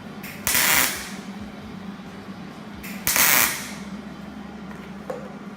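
Two short tack welds from a 300 amp Hobart MIG welder on steel, each a half-second burst of crackling arc hiss, the first about half a second in and the second about three seconds in.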